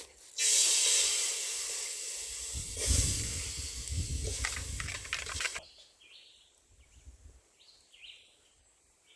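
Loud hiss from food cooking in a hot pot. It starts suddenly about half a second in and cuts off abruptly after about five seconds.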